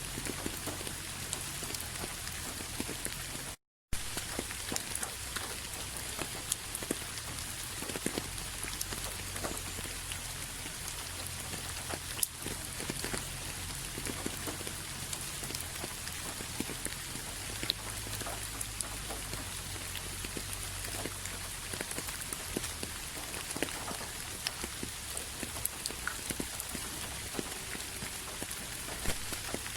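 Steady rain falling: an even hiss with many individual drops ticking on a surface. The sound cuts out completely for a fraction of a second about three and a half seconds in.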